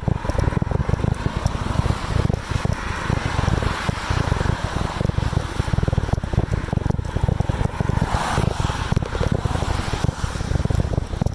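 Wind buffeting the microphone while riding a bicycle: a loud, constant low rumble that flutters rapidly, with a hiss of air and road noise above it that swells briefly about eight seconds in.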